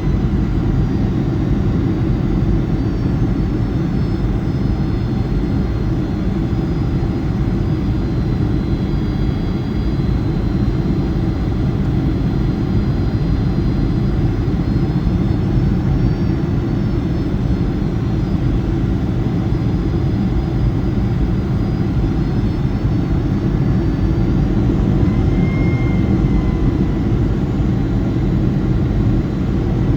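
Boeing 757-200's jet engines heard from inside the cabin on approach: a steady low rumble with faint high whining tones that drift slowly in pitch.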